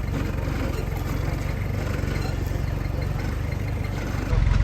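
Off-road 4x4's engine running at a low, steady idle, a rumble with even pulsing; about four seconds in it suddenly gets louder.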